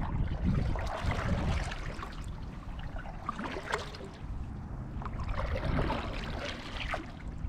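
Water sloshing and trickling against a kayak's hull in irregular bursts.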